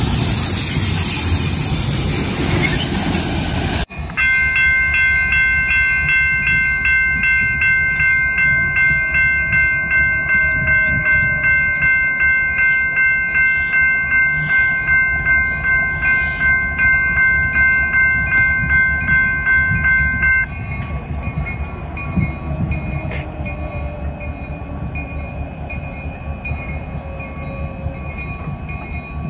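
A double-stack freight train rolls past close by with a loud, even rush, cut off sharply about four seconds in. Then an electronic railroad crossing bell rings about three times a second over the low rumble of distant diesel locomotives. The bell stops about two-thirds through, leaving the rumble and fainter steady tones.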